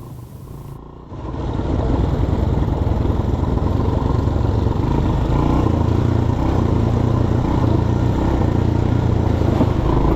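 An ATV's engine running loud and steady while it is ridden, coming in suddenly about a second in.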